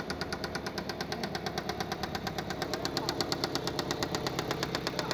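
Toyota 1ZZ four-cylinder engine running at a steady idle with a rapid, even ticking over the engine sound.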